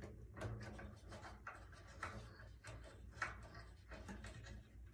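Faint scattered clicks and rubbing as drum-set hardware is handled and fitted, with one sharper click a little after three seconds.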